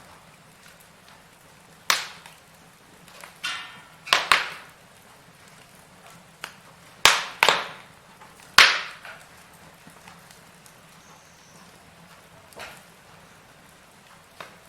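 Burning firewood crackling, with sharp pops every second or few seconds: two close together about seven seconds in, and the loudest about a second later. A brief hiss comes just before a double pop about four seconds in.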